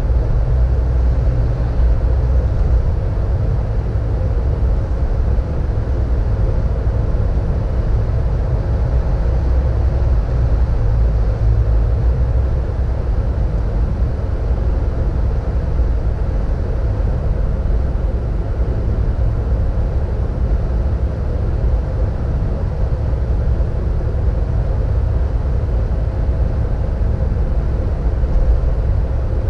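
Steady low rumble of a car's engine and road noise, heard from inside the cabin while driving at an even pace.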